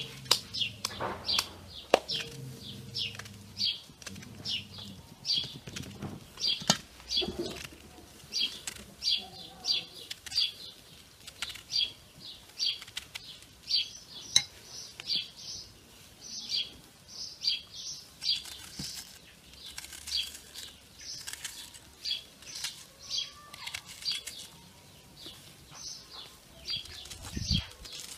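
A small bird chirping over and over, short high chirps about twice a second, with a few sharp clicks in the first couple of seconds.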